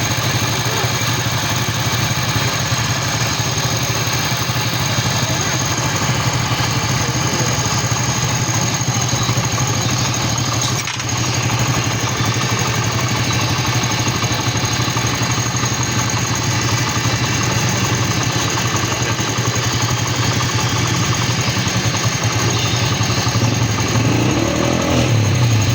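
Motorcycle engine idling steadily, with a brief dip in level about eleven seconds in.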